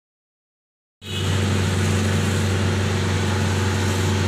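Dead silence, then about a second in an engine starts to be heard abruptly, running steadily as a low hum with a hiss over it.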